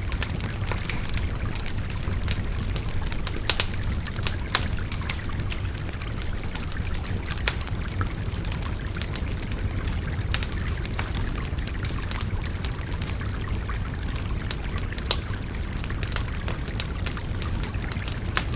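A wood fire crackling, with frequent irregular sharp pops and snaps, over the steady rush of a babbling river.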